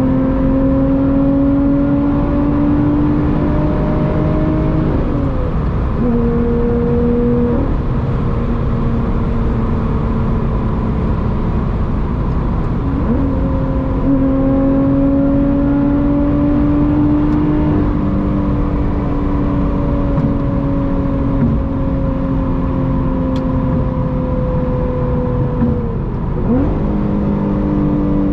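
Lotus Evora GT's supercharged 3.5-litre V6, with a titanium exhaust, running under way at fairly steady revs. Three times the engine note dips sharply and comes back at a new pitch, as at a gear change in the manual gearbox.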